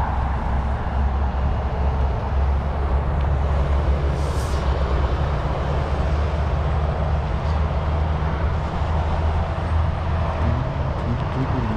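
Steady low rumble of wind on the microphone and bicycle tyres rolling while riding, with a brief hiss about four seconds in.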